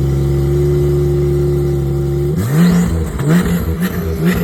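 Car engine idling steadily, then revved in about four quick blips, each a short rising sweep, starting a little over two seconds in.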